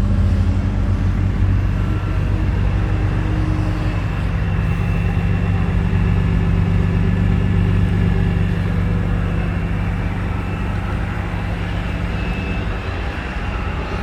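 Exhaust note of a Dinan Stage 3 supercharged 2005 BMW M3 straight-six idling steadily through its Dinan aftermarket exhaust.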